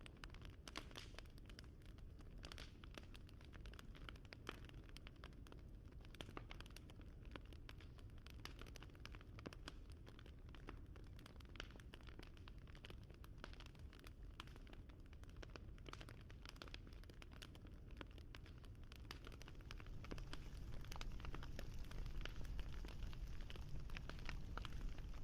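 Wood fire crackling: a dense, irregular run of small pops and snaps over a low rumble, growing louder about twenty seconds in.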